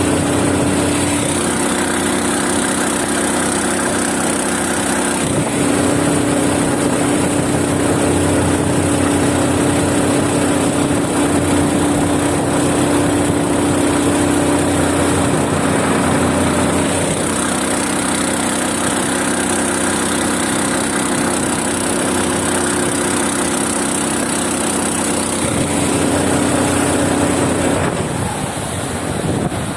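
7 hp mud motor (surface-drive outboard) running steadily under load, driving a boat through shallow water; its note strengthens and weakens several times, and the sound eases slightly near the end.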